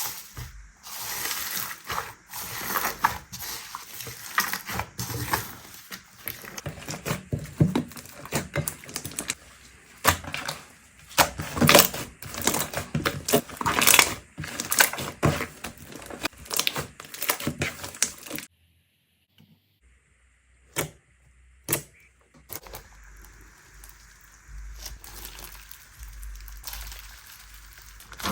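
Slime being worked by hand: dense, irregular runs of sticky crackles, clicks and pops. About two-thirds of the way through it cuts off abruptly, leaving a few single pops and then fainter handling sounds.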